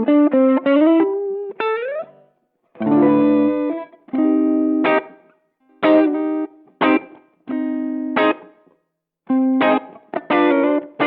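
Electric guitar played through a Behringer TO100 Vintage Overdrive, a Tube Screamer-style green overdrive pedal. It opens with bent, gliding lead notes, then plays a run of short overdriven chords, each choked off with brief silences between.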